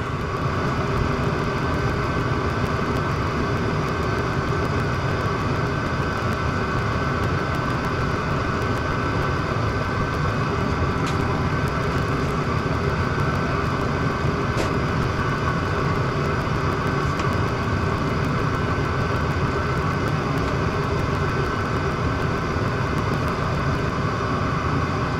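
Chinese diesel parking heater running steadily: the whir of its combustion-air blower and the roar of its burner, with a few faint clicks.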